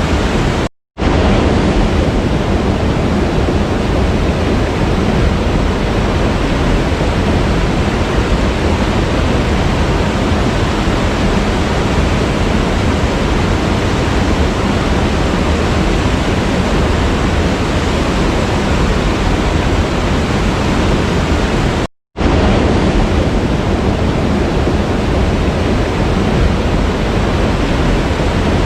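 A waterfall pouring steadily, a dense, even rush of water. It cuts out to silence twice, briefly: about a second in and again about 22 seconds in.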